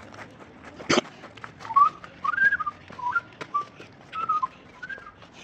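A person whistling a short tune of several gliding notes. There is a sharp knock about a second in, just before the whistling starts.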